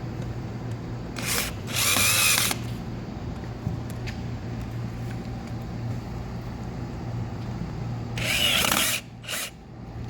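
Power drill driving screws into a wheelchair back: two short runs about six seconds apart, each around a second long, over a steady low hum.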